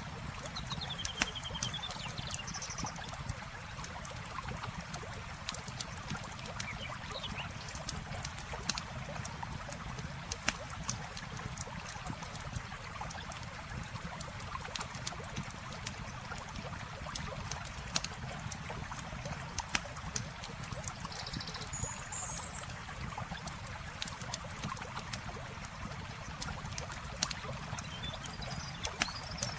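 Campfire crackling with frequent sharp pops over steady flowing river water, with a few short bird chirps.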